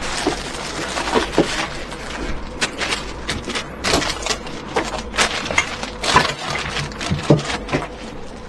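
Irregular knocks, taps and clatter of flat-pack furniture parts being handled, several short hits a second.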